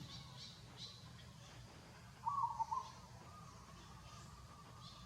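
A short animal call, heard once about two seconds in, over faint high chirping.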